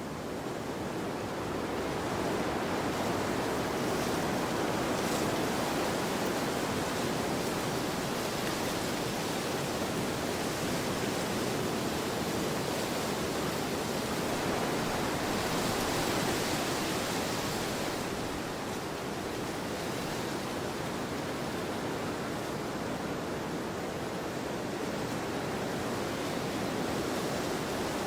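Wind blowing across a field: a steady rushing noise that builds over the first couple of seconds and eases slightly about two-thirds of the way through.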